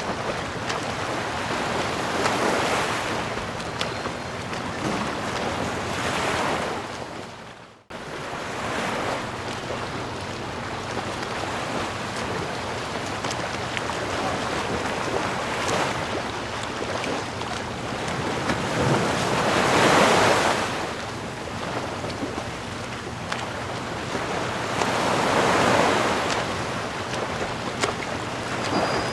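Ocean waves breaking and washing in, swelling and easing every few seconds. About eight seconds in the sound fades to near silence for a moment, then cuts straight back in.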